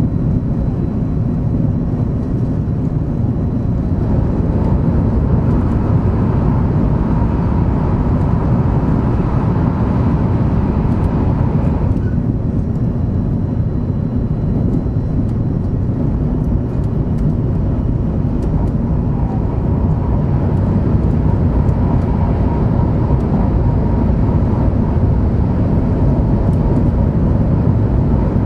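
Shinkansen 500 Series Nozomi train running, heard inside the passenger cabin: a steady, low rumble with a faint hum, unchanging throughout.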